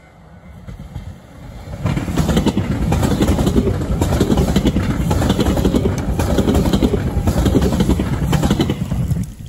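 A 789-series electric limited express train passes through a station at speed. Its wheels rumble and clatter on the rails, building over the first two seconds, then the sound drops away abruptly near the end as the last car goes by.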